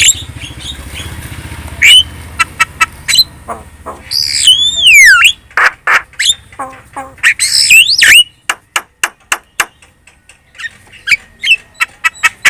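Javan myna singing a chattering song of harsh squawks, sharp clicking notes and a swooping whistle, with a dense run of rapid notes in the middle that thins out about two-thirds of the way through.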